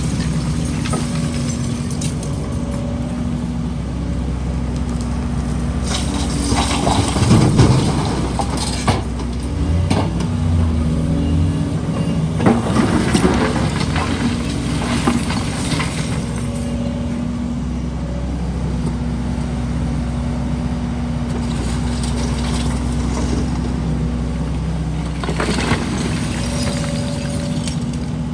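Heavy diesel machinery engine running steadily, with several louder noisy, rasping bursts over the top, typical of an excavator working and debris being handled.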